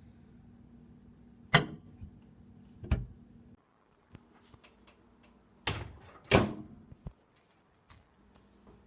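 Microwave oven door being opened and shut as a bowl is put inside: a few sharp clunks and knocks, two of them loud, one about one and a half seconds in and one about six seconds in.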